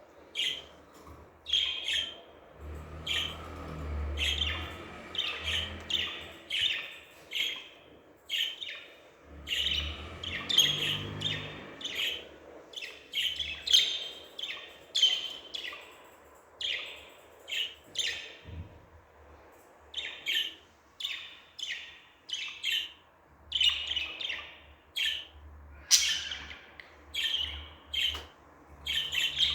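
Budgerigars chirping and warbling in quick short calls, several a second, with a low rumble under them at times.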